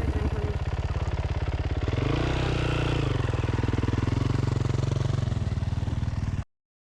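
Motorcycle engine running under way, its pitch rising about two seconds in and easing back down. The sound cuts off abruptly near the end.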